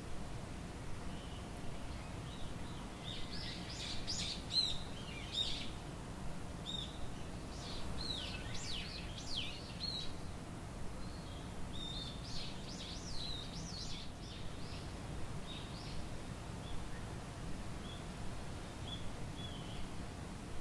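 Songbirds chirping and singing in quick rising and falling phrases, busiest in the first two-thirds and thinning out after, over a steady low background rumble.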